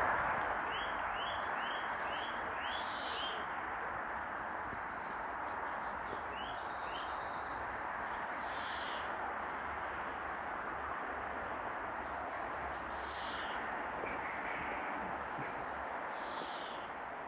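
Songbirds singing outdoors: one bird repeats a short, high phrase about every four seconds, while another chirps in a quick series near the start. A steady background hiss of outdoor noise runs underneath.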